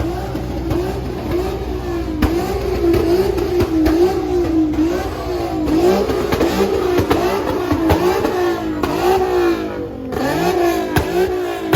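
Car engine revving over and over, its pitch rising and falling in quick cycles, with several sharp exhaust pops.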